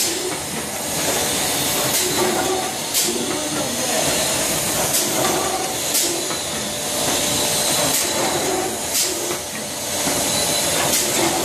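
Pudding powder packaging machine running: a steady mechanical hiss with a sharp click or snap every second or two as it cycles through its packs.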